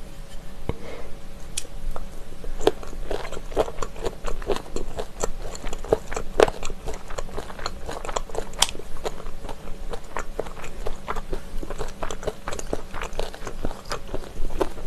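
Close-miked chewing of spicy chicken feet, a steady run of short crunchy clicks and smacks as the cartilage is bitten through.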